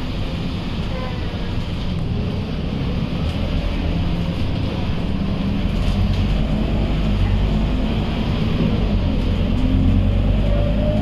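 Scania K230UB city bus's 9-litre five-cylinder diesel engine running under way, with a steady low drone that grows louder from about four seconds in.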